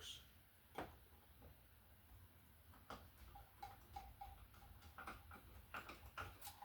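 Faint, irregular small clicks and ticks from hand-work on an electrical wall receptacle: a screwdriver turning and tightening a terminal screw, more frequent in the second half.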